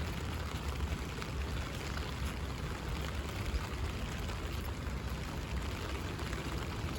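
Steady rain on an umbrella held overhead: an even hiss of many small drop hits over a low rumble.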